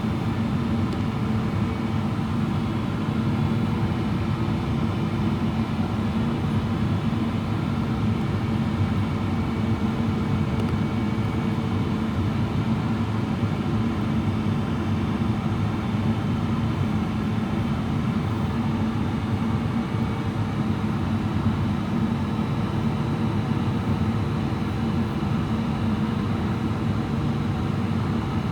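Steady cabin noise inside a Boeing 777-300ER on approach with slats extended: rushing airflow and the hum of its GE90 engines, with a strong low drone and a faint steady tone above it.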